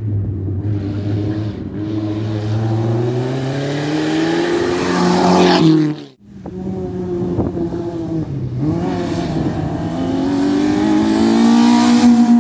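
Rally car engine under hard acceleration, its pitch climbing steadily for about six seconds. The sound cuts out abruptly, then the engine comes back, dips briefly and climbs again.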